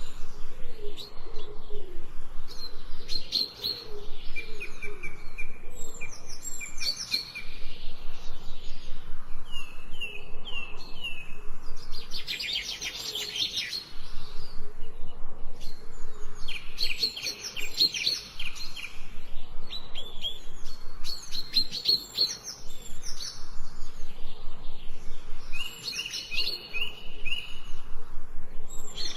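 Several songbirds singing in a forest: short phrases of fast trills and chirps, one after another every few seconds.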